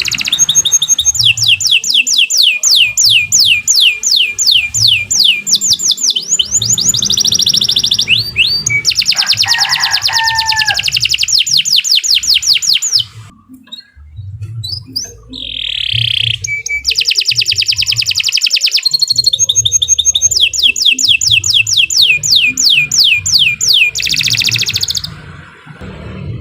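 Domestic canary singing long, fast rolling trills of rapidly repeated high notes, breaking off for a moment about halfway through before resuming.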